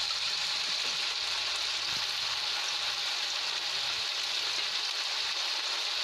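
Onions, ginger-garlic paste and ground red chilli sizzling steadily in hot oil in a kadhai.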